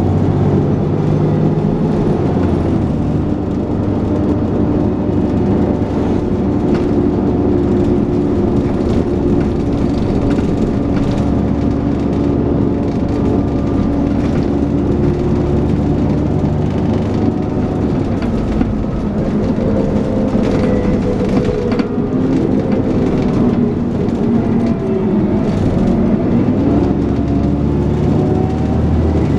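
Dennis Trident 2 double-decker bus under way, heard from on board: the diesel engine and driveline running with a droning whine, its pitch holding steady and then shifting several times as the bus speeds up, changes gear and eases off.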